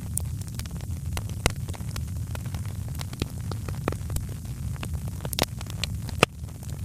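Wood fire crackling, with frequent irregular sharp pops over a steady low rumble; one louder pop about six seconds in.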